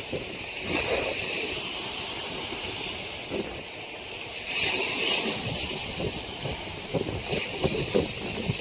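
Storm wind gusting and buffeting the microphone over a steady rushing hiss, with several rough knocks of wind on the microphone near the end.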